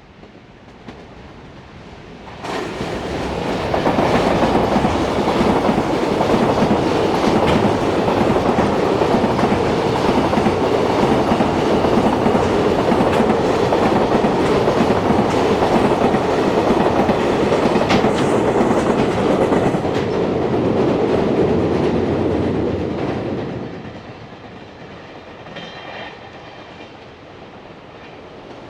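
Freight train running past on the line, the sound of its wheels and wagons on the rails. It comes in sharply a couple of seconds in, stays loud for about twenty seconds, then falls away near the end.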